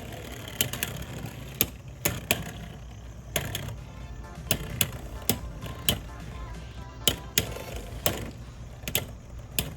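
Beyblade X spinning tops, among them Arc Wizard R 4-55LO, battling in a plastic stadium: sharp clacks as the tops collide and hit the walls, coming irregularly every half second or so, over a steady whir.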